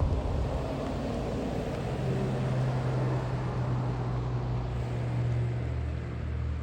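Toyota Land Cruiser FZJ80's 4.5-litre straight-six engine and tyre noise while driving at a steady pace, a steady drone over road noise.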